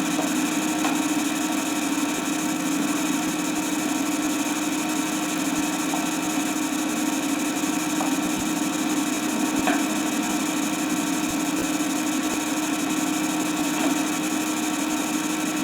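Steady background hum and hiss of an old film soundtrack, with a few faint clicks and no speech.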